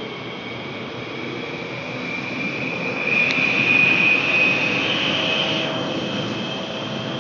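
A Daegu Metro 1000-series electric train with Siemens GTO VVVF traction control running, heard from inside the car: steady running noise with a high whine that rises slightly and grows louder about three seconds in, then eases. A single sharp click comes near the middle.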